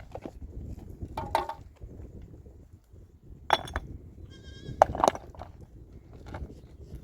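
Goats bleating several times, in short calls, over a steady low rustle.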